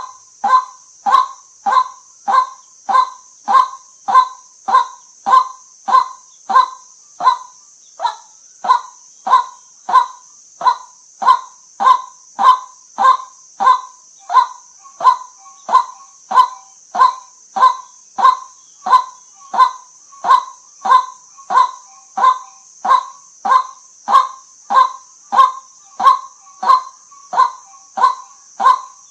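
White-breasted waterhen giving its monotonous 'kwak' call over and over, about one and a half to two calls a second at an even pace, used as a lure call. A steady high hiss runs underneath.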